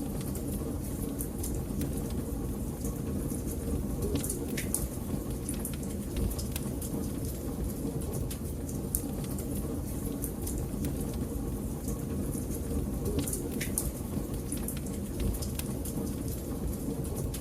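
Fire in a fireplace crackling: scattered sharp snaps and pops over a steady low rumble.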